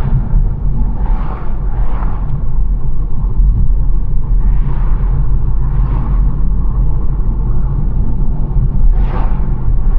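BMW 1 Series driving along a country road: a steady low road and engine rumble, with about five brief rushing swells of noise, near the start, about two seconds in, around five and six seconds, and near the end.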